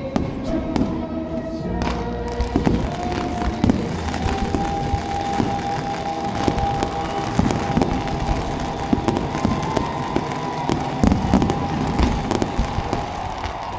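Fireworks shells bursting in a quick, irregular run of bangs, over stadium music playing long held notes.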